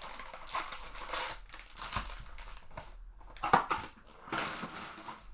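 Trading card pack wrapper crinkling and cards being handled and slid against each other, with a sharp snap about three and a half seconds in.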